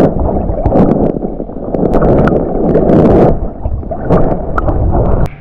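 Creek water sloshing and splashing close to the microphone as someone wades through it, with scattered sharp splashes; it stops abruptly near the end.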